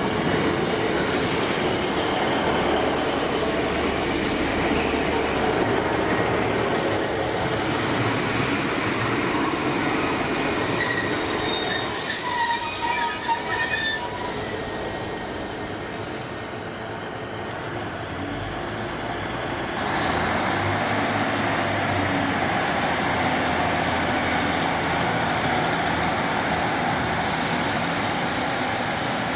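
Diesel train running at the station, a steady rumble with short high wheel squeals and a burst of hiss around the middle.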